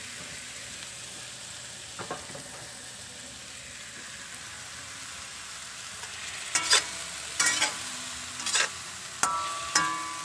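Salpo frying in a stainless steel wok with a steady sizzle. From about six seconds in, a metal spatula stirs and scrapes the food, clanking sharply against the pan about five times.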